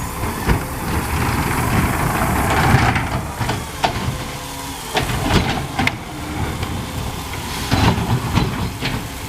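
Garbage truck running, with a hiss of air that swells over the first few seconds and several sharp knocks and clanks after it.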